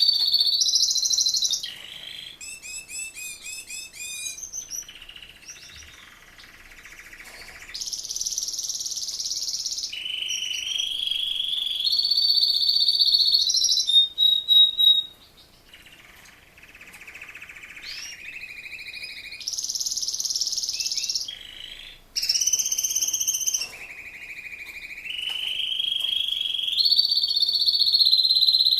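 Male Raza Española canary singing a long, varied song: trills that step upward in pitch, quick runs of repeated chirps and higher buzzy rolls, with short breaks about halfway through and again after about two-thirds.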